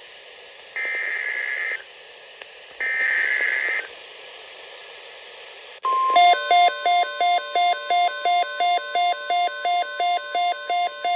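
NOAA Weather Radio alert coming through a radio receiver. First come two one-second buzzy bursts of digital alert-header data over radio hiss. About six seconds in, a steady alarm tone starts, joined by an electronic beeping about two and a half times a second, which signals a new weather alert, here a severe thunderstorm watch.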